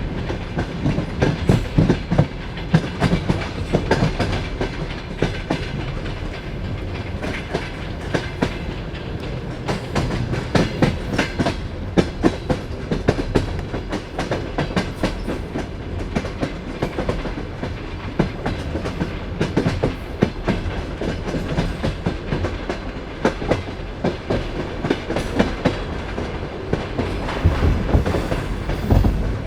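Passenger train carriage rolling along, its wheels clacking and knocking irregularly over rail joints above a steady low rumble.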